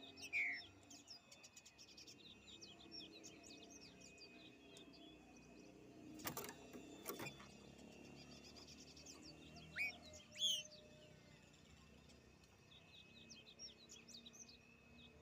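Green-winged saltator (trinca-ferro) singing in woodland among other small birds chirping. Loud whistled phrases that fall in pitch come at the start and again about ten seconds in. Two short knocks sound about six and seven seconds in.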